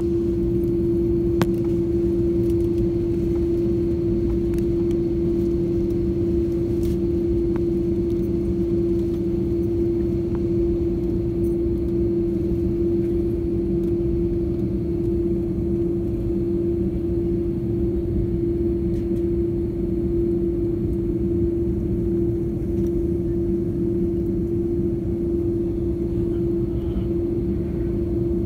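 Steady, unchanging airliner cabin noise: the jet engines and airflow make a constant rumble with a steady hum on top. There is one faint click about a second and a half in.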